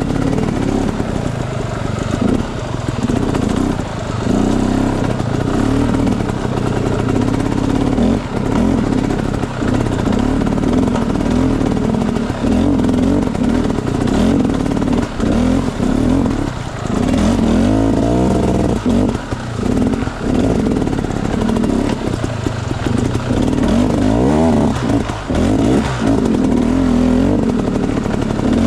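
Enduro dirt bike engine being ridden off-road, the throttle opened and closed again and again, so the revs keep climbing and dropping, with clatter from the bike over rough ground.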